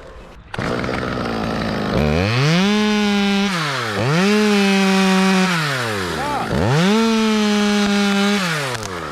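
Two-stroke chainsaw running at idle, then revved up to full throttle three times, each time held for about a second and a half before dropping back, as in a cut through a limb.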